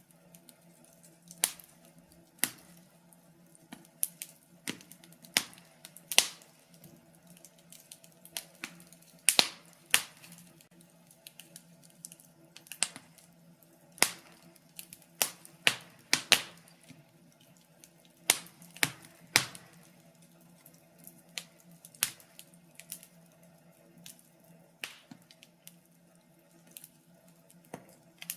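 Fire crackling: irregular sharp pops and snaps, roughly one a second and unevenly spaced, some much louder than others, over a faint steady low hum.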